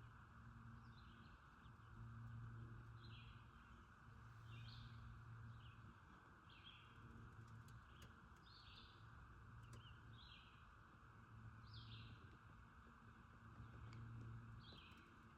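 Faint bird calls: short, high chirps repeated about once a second. Beneath them is a low hum that swells and fades every couple of seconds.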